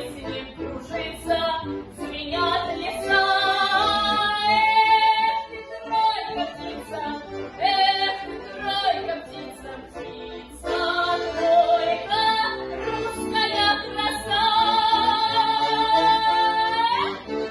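A solo female voice sings a Russian song in a full, trained style, holding two long high notes with vibrato, over an accordion accompaniment.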